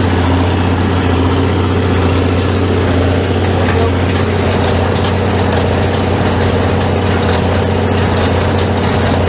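Farmall 806 tractor engine running steadily while pulling a working square baler, with light rapid clicking from the baler's mechanism from about four seconds in.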